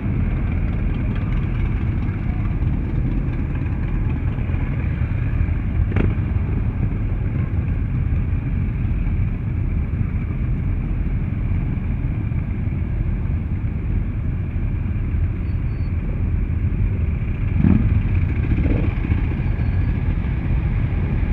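Classic racing motorcycle engine running steadily with a dense, even low rumble and no revving, with a sharp click about six seconds in.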